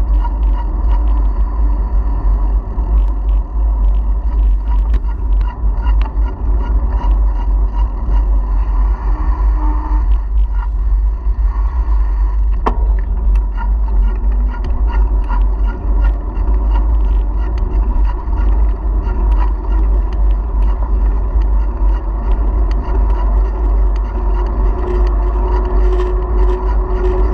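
Wind buffeting the microphone of a bicycle-mounted action camera while riding, a steady loud low rumble, with scattered small clicks and rattles from the moving bike.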